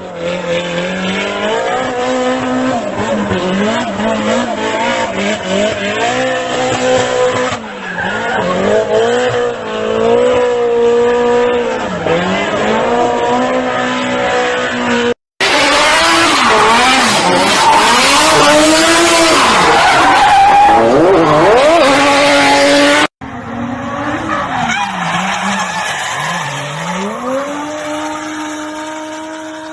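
Drift cars sliding, their engines revving up and down hard over tyre squeal and skidding. This runs through three separate runs, cut together. The middle run is the loudest, with a dense screech, and in the last the engine climbs to a held high rev and then fades away.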